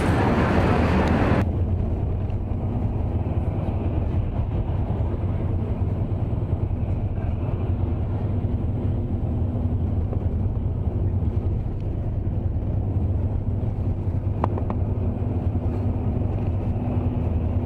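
Airbus A321-200 heard from inside the cabin: a loud rushing hiss stops abruptly about a second and a half in, leaving a steady low rumble with a faint hum.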